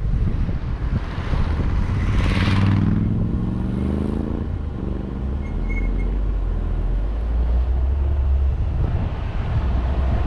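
Vehicle engine running on the road, with wind rushing over the camera's microphone. Around a third of the way in there is a brief whoosh, and an engine note shifts in pitch for a couple of seconds.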